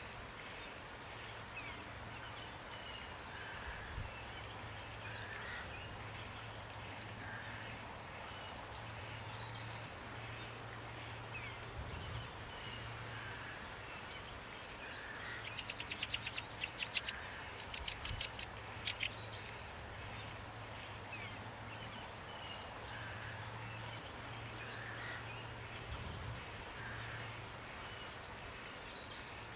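Steady rain with songbirds singing. A high phrase of quick falling notes comes back about every ten seconds, and near the middle a louder rapid rattling trill lasts about three seconds.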